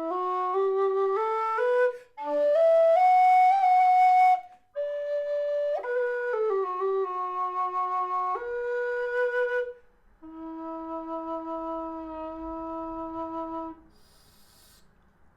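Howard low D whistle playing a slow tune, its phrases broken by short breath pauses. The tune ends on a long, steady low note that stops about fourteen seconds in.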